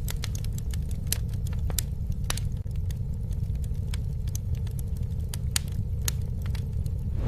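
Campfire crackling, with many irregular sharp pops and snaps over a steady low rumble of the flames.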